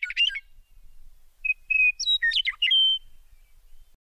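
Bird song: quick chirps and whistled notes with sharp pitch slides, one phrase ending just after the start and a longer phrase about a second and a half in.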